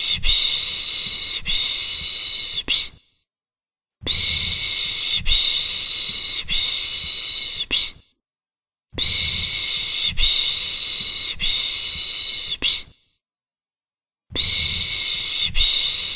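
A person shushing a baby to sleep: long hissing "shhh" sounds of about four seconds each, every one broken by two or three brief catches, with about a second of silence between them, repeating in an even cycle.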